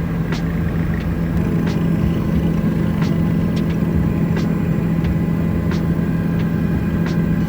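Tour helicopter's engine and rotors running steadily, a loud constant drone with a strong low hum, with faint light ticks scattered through it.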